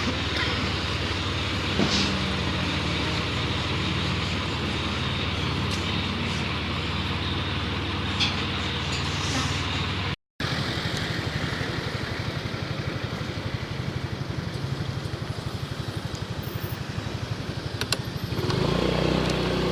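Scooter engine idling steadily during an emission test. The sound drops out briefly a little past halfway, and the engine gets louder near the end.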